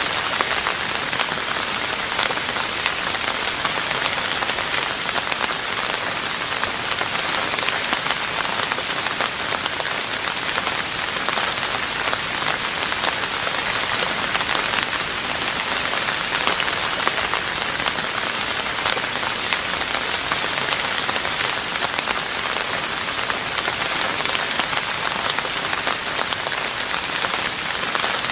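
Steady rain falling on a roof, a dense even patter of drops with no letup.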